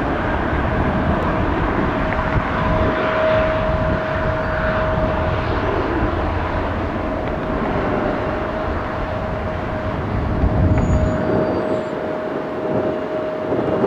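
Jet airliner engines running, a steady whine held over a broad rumbling rush of engine noise; the whine cuts off near the end.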